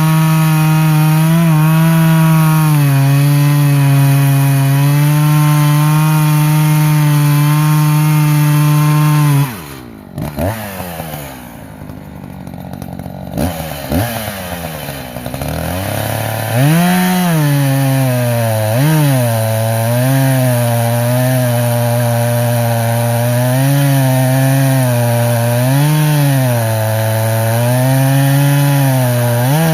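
Echo CS-590 two-stroke chainsaw running at full throttle through a log, its pitch sagging slightly under load. About nine and a half seconds in the throttle is let off and the engine falls to idle for several seconds, then it revs back up and runs on at high revs, its pitch rising and falling every couple of seconds as it works the cut.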